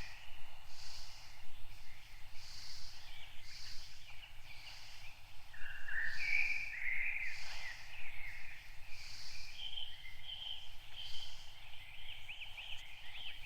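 Several songbirds chirping and warbling. A soft, high pulsing sound repeats about every second and a half behind them.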